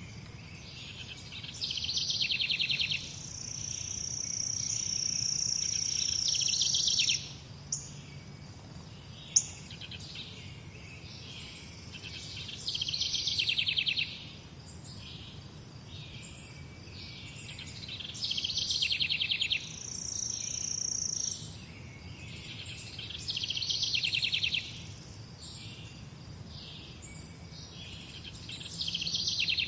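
Morning birdsong: a bird repeats a short song phrase with a fast trill every few seconds, while another high thin note is held for a few seconds at a time, over a faint low background hum. Two sharp clicks sound around the eighth and ninth seconds.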